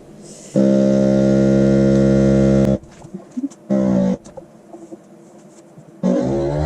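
A vacuum sealer's pump motor runs with a steady hum for about two seconds, then stops abruptly as it finishes drawing the air out of the bag.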